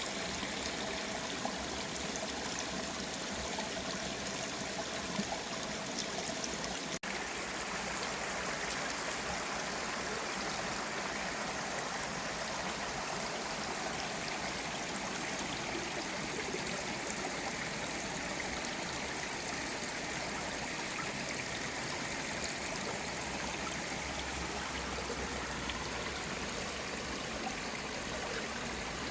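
Mountain valley stream running over rocks: a steady, even rush of water, broken by a momentary dropout about seven seconds in.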